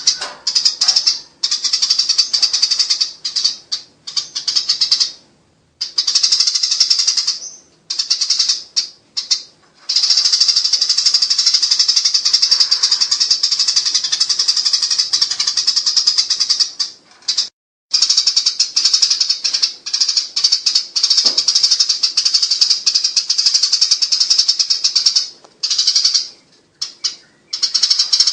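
Eurasian tree sparrows giving a harsh, rapid, continuous chatter, the scolding 'nyerecet' call of sparrows fighting, in long runs broken by a few short pauses.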